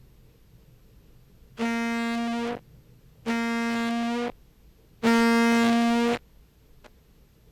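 Contrabass clarinet played through a compressor pedal: three separate tongued notes on the same pitch, each held for about a second, the third a little louder and longer. The compression leaves the tonguing attack unchanged.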